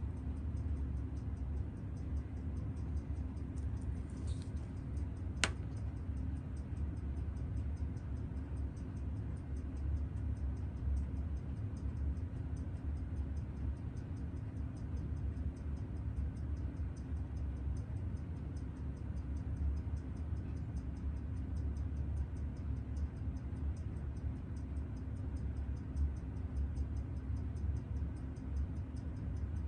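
Fast, steady, even ticking over a constant low hum, with one sharp click about five seconds in.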